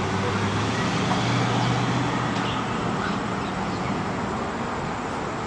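Steady road traffic noise, with the low hum of a vehicle engine that fades out about three seconds in.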